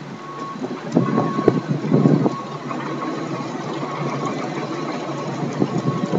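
Wind buffeting the microphone in gusts, louder about one and two seconds in, over a steady street noise of traffic.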